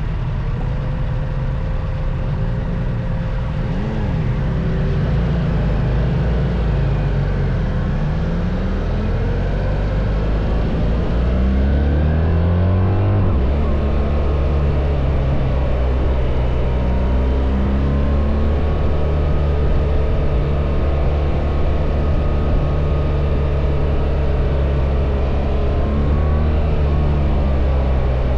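BMW R1300 GS boxer-twin motorcycle engine under way. It rises in pitch as the bike accelerates, changes gear with a sudden drop about thirteen seconds in, then runs at a steady pitch.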